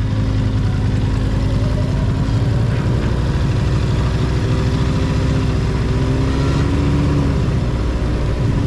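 Motorcycle engine running under way, with wind noise. The engine pitch rises a little early on, holds steady, then eases off about seven seconds in.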